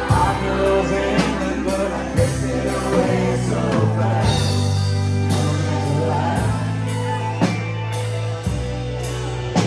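Band music with a drum kit, bass and guitar, the bass notes changing about four seconds in.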